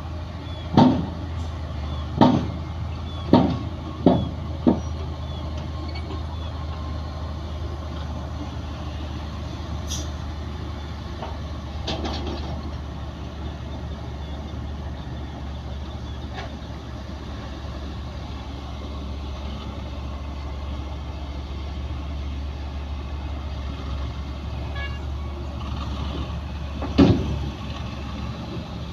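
Heavy diesel earthmoving machinery running steadily, with a quick run of five loud bangs in the first five seconds and one more near the end.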